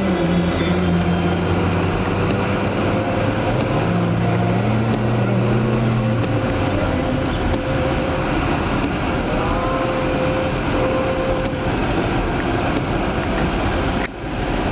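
A motor vehicle's engine hum, rising in pitch about four seconds in and dying away about three seconds later, over a loud, steady rushing noise.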